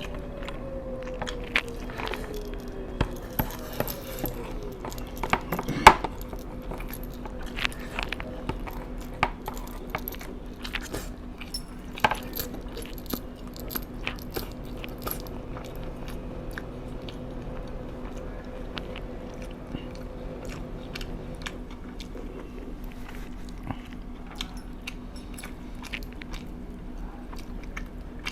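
Close-up eating sounds: chewing and biting of fried food, with crunches and scattered clicks. One loud click comes about six seconds in, and a faint steady hum runs underneath.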